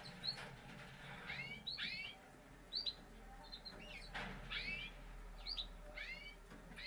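Canaries calling: short chirps, each sweeping down in pitch, repeated irregularly every half second to a second.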